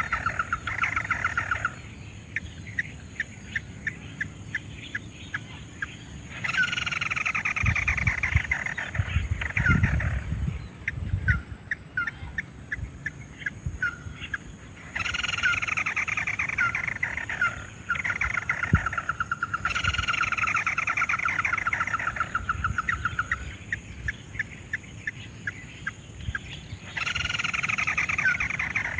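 Ruddy-breasted crake calls: rapid descending trills lasting several seconds, alternating with spells of sharp, evenly spaced ticking notes, repeating over and over.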